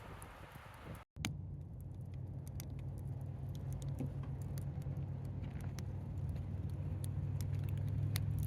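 Campfire crackling with scattered sharp pops over a steady low rumble. The sound cuts out briefly about a second in, and the rumble then builds slowly.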